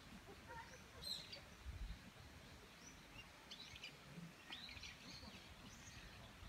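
Faint songbird chirps and twitters: a few short, high calls scattered through, over a quiet outdoor background, with a low thump about two seconds in.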